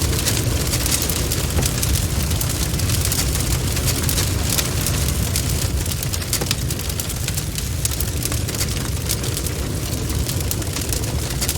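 Wood campfire burning: a steady low rumble of the flames, with dense, irregular crackling and small pops of the burning wood.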